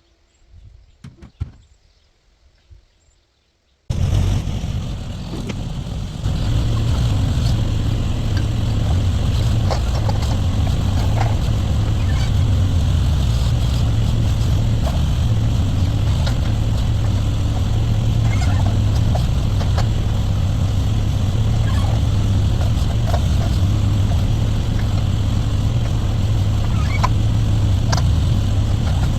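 Backhoe engine running steadily with a deep low hum and occasional light clanks. It starts abruptly about four seconds in, after a few faint knocks, and gets louder about two seconds later.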